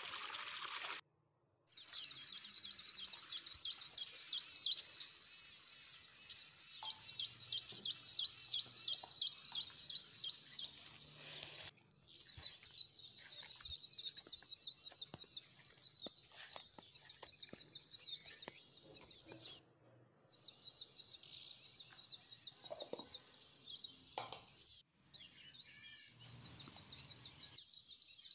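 Small birds chirping in quick, continuous trills, several overlapping, with the chirping cut off abruptly a few times and starting again.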